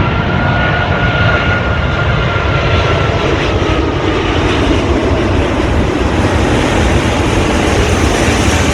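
Wide-body jet airliner's engines running loud and steady as it comes in to land, with a thin whine that fades out about three seconds in.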